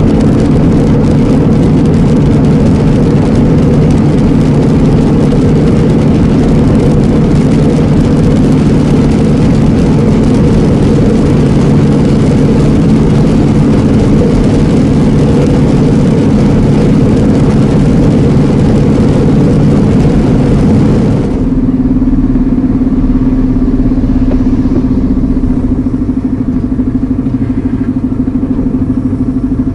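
Inside the cab of an Iveco Eurocargo lorry on the move: a steady diesel engine hum under tyre and road hiss. About two-thirds of the way through, the hiss drops away suddenly, leaving a steady, lower engine hum.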